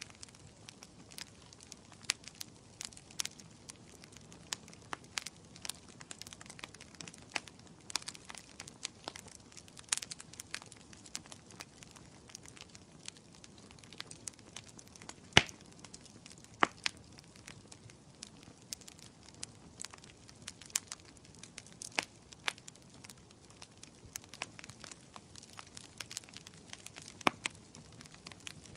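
Wood fire in a fireplace crackling, with irregular sharp pops and snaps over a soft steady hiss of burning. The loudest single pop comes about halfway through.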